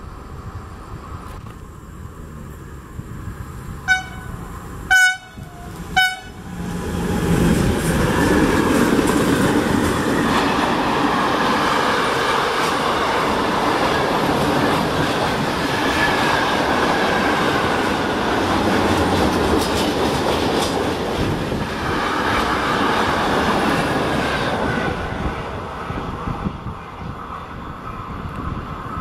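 Sangritana E483 electric locomotive sounding its horn in three short blasts a few seconds in, the middle one the loudest. Then the freight train of single-level car-carrier wagons runs past with a loud, steady rumble of wheels on rail, easing off near the end.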